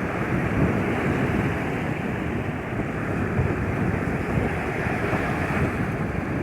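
Sea waves washing onto a beach, a steady rushing surf, with wind buffeting the microphone.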